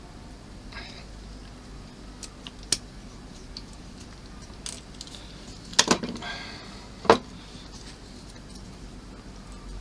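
Small tools and plastic model parts being handled on a work surface: scattered light clicks and taps, with a few sharper knocks and a brief rattle past the middle.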